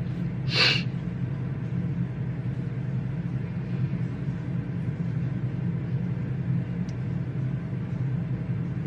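Steady low hum of a library reading room's background noise, with one brief soft rustle about half a second in.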